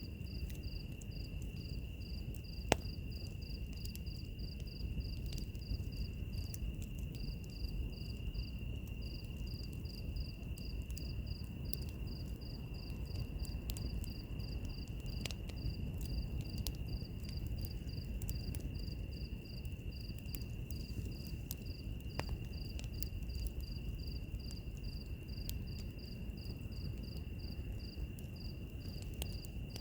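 Crickets or similar insects chirping: one steady high trill and another insect's rapid, evenly pulsed chirping above it. Underneath, a wood fire hisses low and crackles with scattered pops, one sharp pop about three seconds in.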